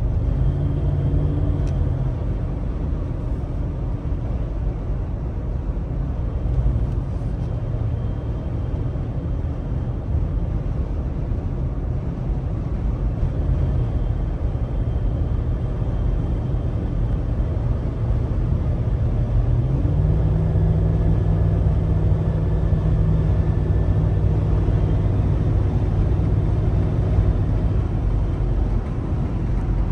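2011 Cadillac Escalade's V8 engine running steadily while the SUV is driven, with road noise underneath. About two-thirds of the way through, the low engine hum becomes stronger and holds there.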